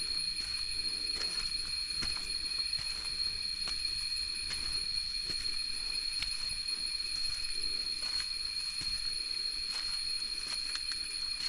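Steady high-pitched drone of a jungle insect chorus, holding several unchanging tones, with scattered light crunches and ticks from footsteps on leaf litter.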